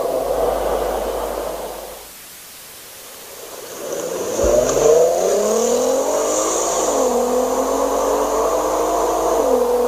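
Volkswagen Golf R32's 3.2-litre VR6 engine and exhaust: revs falling away, a short lull, then accelerating hard with rising pitch. The pitch drops at two upshifts, about seven and nine and a half seconds in.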